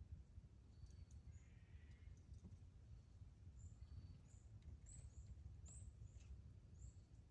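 Faint, short, high chirps from small birds, a string of them in the second half, over a low steady background rumble.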